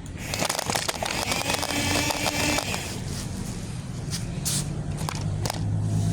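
Toy excavator at work: a low motor hum under crackling, scraping and several sharp clicks from its moving parts.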